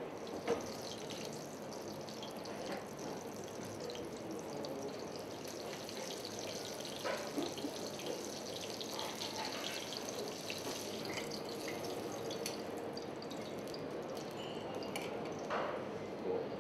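Battered sausage schnitzel frying in hot fat in a pan: a steady sizzle full of fine crackles, with a couple of light knocks of a utensil against the pan.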